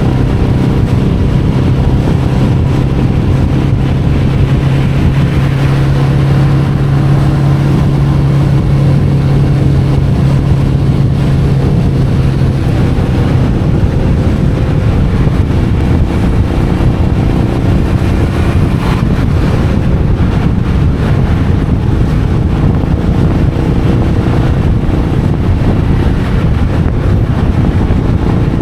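Royal Enfield Meteor 350's single-cylinder engine running on the move, with wind rushing over the microphone. The engine note is steady for about the first half, then grows less distinct under the wind and road noise.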